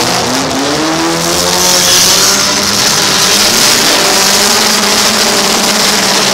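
Several demolition derby cars' engines running and revving together, one engine rising in pitch in the first second or so.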